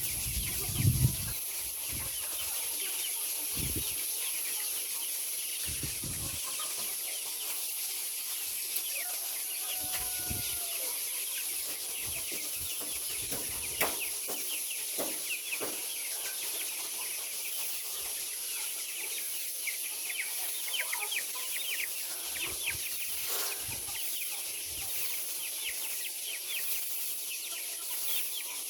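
A large flock of chickens chirping and clucking, many short overlapping calls at once, with a few low thumps, the loudest about a second in.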